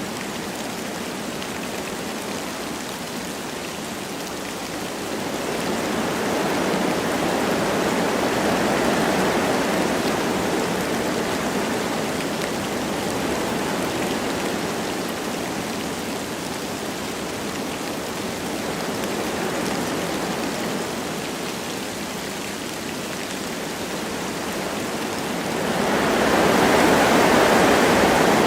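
Wind blowing through forest trees over a light patter of rain, a steady rushing that swells in gusts, one about five seconds in and a stronger one near the end.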